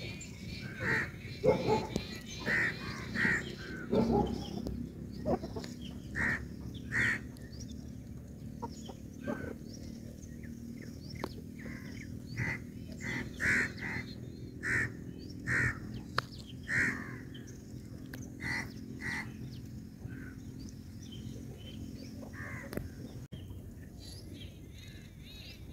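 A bird giving a run of short repeated calls, about one or two a second, loudest in the first few seconds and thinning out after about 17 seconds, over a faint steady low hum.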